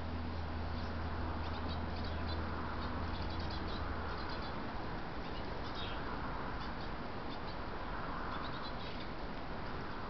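Faint, high chirps of small garden birds in short scattered clusters over a steady hiss, with a low hum that stops about four seconds in.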